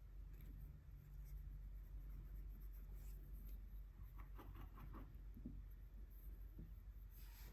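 Faint scratchy strokes on paper from swatching acrylic gouache, with a quick cluster of about five strokes four to five seconds in, over a steady low hum.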